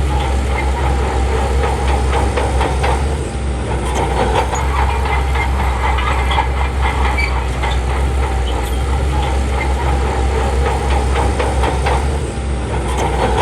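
Crawler bulldozer's diesel engine running steadily under a heavy low drone, with its steel tracks clanking and rattling, dipping briefly about three seconds in and again near the end.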